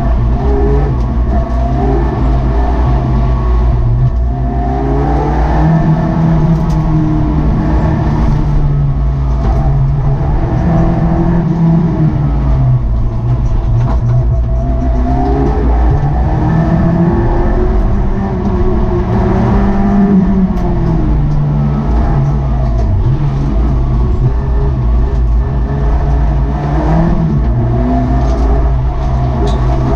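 Car engine heard from inside the cabin, revving up and dropping back again and again as the car accelerates and lifts off through the slalom.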